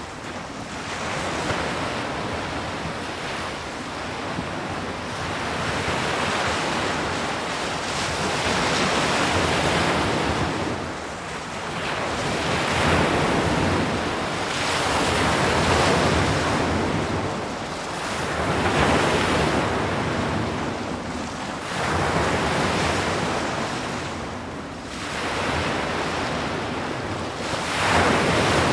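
Ocean waves breaking on a shore, a continuous surf wash that swells and recedes about every three to four seconds.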